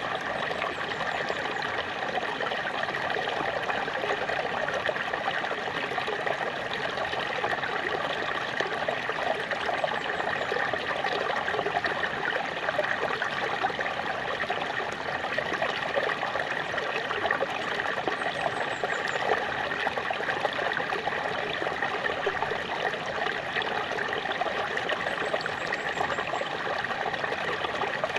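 Small waterfall splashing steadily, an even, unbroken rush of falling water.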